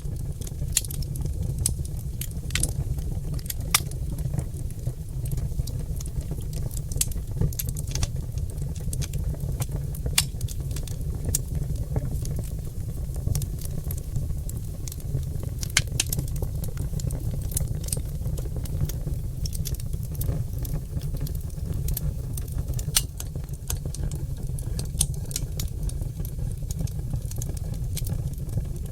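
Oak logs burning in a fireplace, crackling and popping with frequent sharp snaps at irregular intervals over a steady low rumble.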